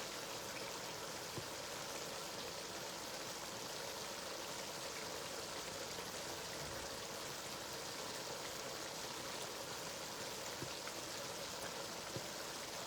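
Pot of stew simmering on the stove: a steady soft hiss with a few faint ticks.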